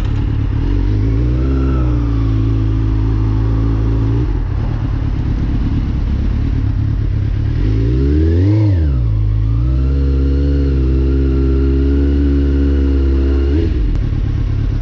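Suzuki GSX-R sport bike's inline-four engine running at a steady speed, with one quick rev up and back down about eight seconds in. The steady engine note stops shortly before the end.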